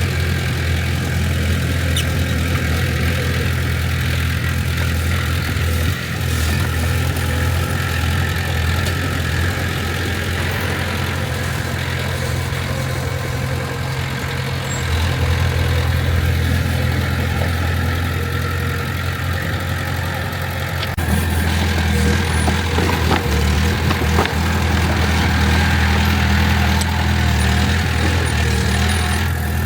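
Heavy construction machine's diesel engine running steadily with a low, even hum. It gets louder and fuller about two-thirds of the way through.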